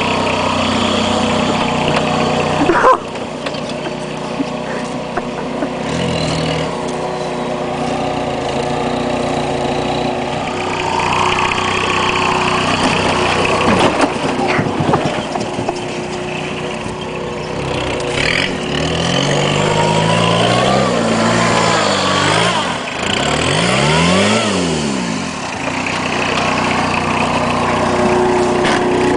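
Peugeot 306 1.9 turbo diesel engine running under load as the car is driven across a ploughed field. Near the end the revs rise and fall several times.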